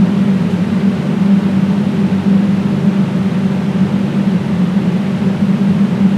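Loud, steady droning hum with an even hiss over it, unchanging throughout.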